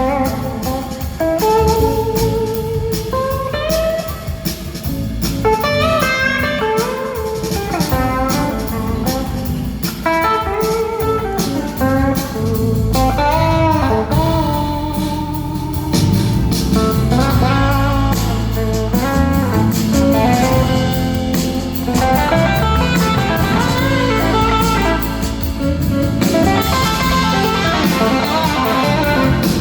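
Live blues-rock band playing, with an electric guitar carrying a lead line of gliding, bending notes over the band's bass and drums.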